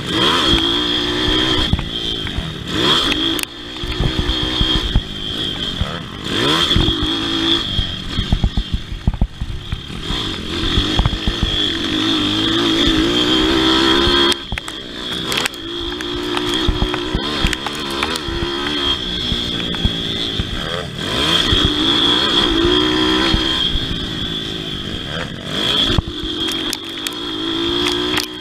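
Pit bike engine racing on a motocross track, its revs rising and falling over and over with gear changes and throttle, amid frequent knocks and rattles.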